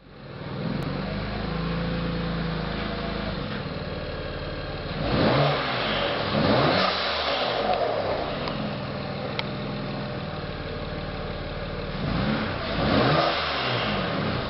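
2007 BMW 335i's twin-turbo N54 inline-six idling, then revved about five seconds in and again near the end, the pitch rising and falling each time. As each rev falls away there is a hiss from its HKS blow-off valve venting.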